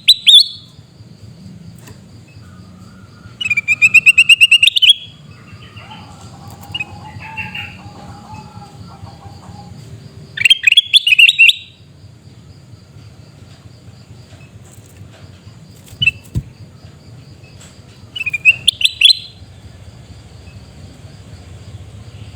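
Kutilang emas (golden bulbul) giving loud harsh calls: short bouts of rapidly repeated notes, at the start, around four seconds in, around eleven seconds, and again near nineteen seconds, with fainter softer bird notes between.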